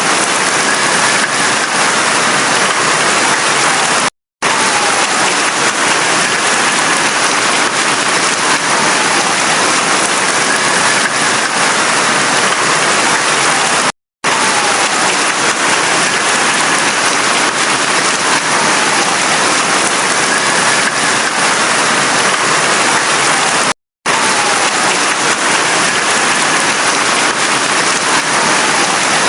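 Heavy rain falling steadily. It cuts out to silence for a split second three times, about every ten seconds.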